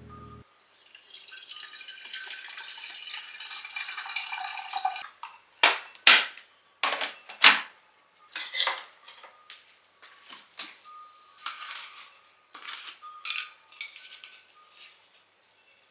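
Dishes and bowls being handled: a rustling hiss for about four seconds, then a string of sharp clinks and knocks, several of them loud, as pieces are set down and moved against each other.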